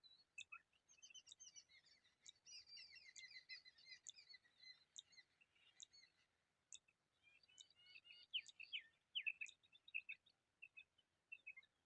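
Quail calling: a fast twittering run of high chirps, then sharper separate notes in the second half.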